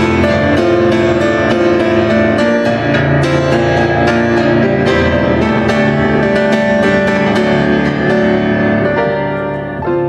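Piano playing a slow processional, many notes struck and held, winding down and fading near the end.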